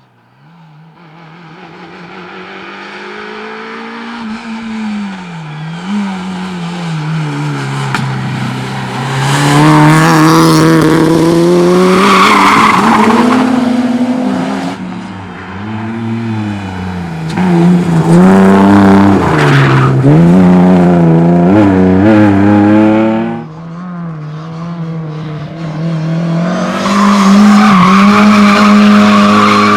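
Rally car engine approaching from afar, growing steadily louder, then revving hard up and down close by as the car is driven through corners, with tyres squealing. The engine briefly drops off about two-thirds of the way through, then comes back at full revs near the end.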